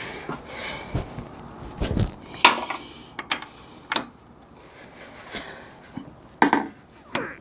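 Irregular metallic clanks and knocks, about eight of them, as a Jeep XJ door and its hinge are worked into alignment to fit new hinge pins and bushings.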